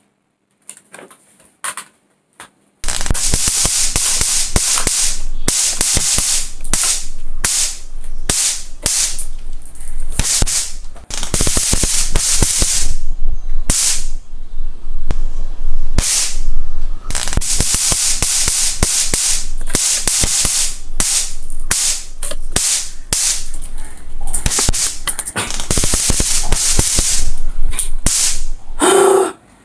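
Battle sound effect of rapid gunfire: dense crackling and bangs that start about three seconds in and stop just before the end.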